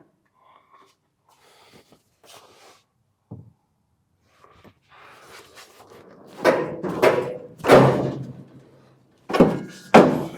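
The steel cab of a 1958 Ford F100 being shifted on a truck frame, with a series of loud metal clunks and bangs that ring briefly. They start about halfway through after some faint scraping and knocking.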